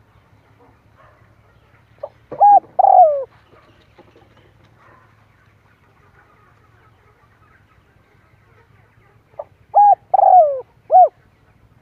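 Spotted dove cooing: two phrases several seconds apart, each of three or four short coos, with the longer coos sliding down in pitch. A faint low hum lies underneath.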